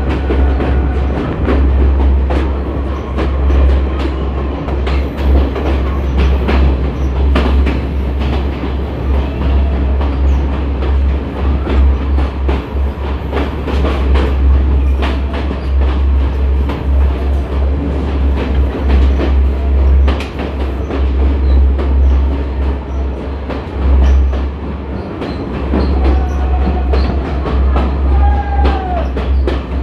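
Train running on rails, with a steady low rumble and wheels clicking over the rail joints. Near the end there are a couple of brief wheel squeals.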